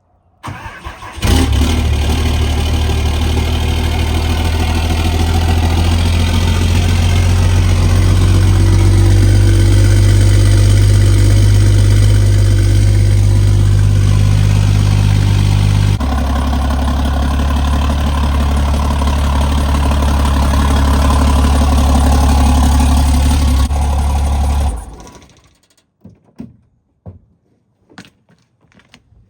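Cummins turbo diesel pickup cold-started: a short crank, then it catches about a second in and runs loud and steady. Its note shifts about halfway through, and it cuts off a few seconds before the end, followed by a few light knocks.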